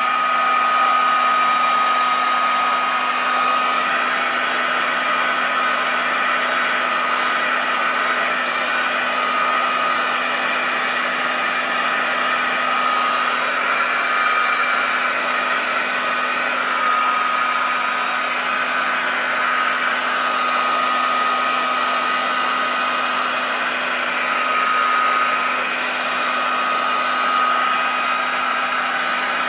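Electric heat gun running steadily, blowing hot air, a constant rushing hum with a faint high whine, held over a warped plastic part to soften it flat.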